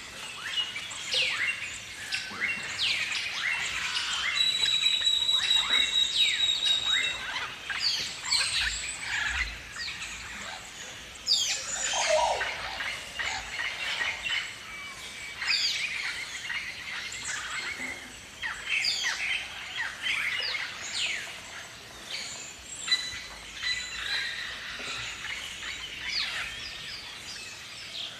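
Galahs calling: many short, high, chirping calls overlapping throughout. A thin steady whistle sounds for a couple of seconds about five seconds in.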